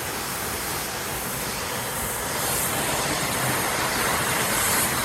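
Steady rushing roar of a waterfall, growing a little louder about two seconds in.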